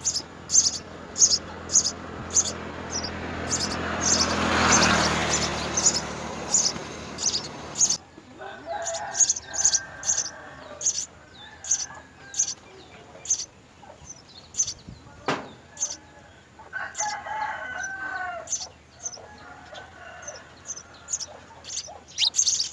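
House sparrows chirping in a steady series of short, high chirps, about two a second. In the first seconds a rush of noise swells and then cuts off suddenly about eight seconds in. Later, lower wavering calls sound twice behind the chirping.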